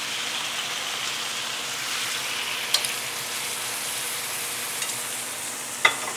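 Chicken wings and their freshly added soy-sauce marinade sizzling steadily in a hot pan, with a couple of light clicks partway through and near the end.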